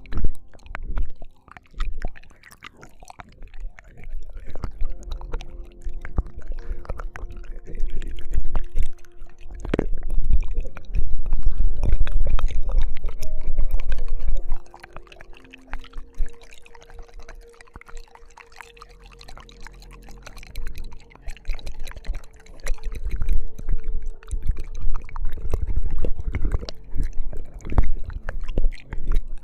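ASMR ear-licking mouth sounds close to a binaural microphone: wet licks, smacks and clicks, with heavy low rumbles of contact on the mic that come and go.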